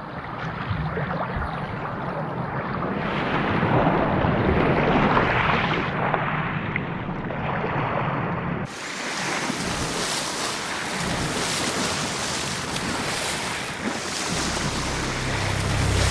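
Sea water surging and splashing at the surface, a steady rushing wash with a low hum beneath it; about nine seconds in it changes abruptly to a brighter hiss.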